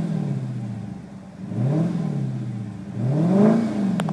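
2012 Chrysler 300 SRT8's 6.4-litre Hemi V8 being free-revved in Park, heard from inside the cabin. A rev dies away at the start, then the engine is blipped twice, the second rev higher and longer, the pitch climbing and falling back to idle each time.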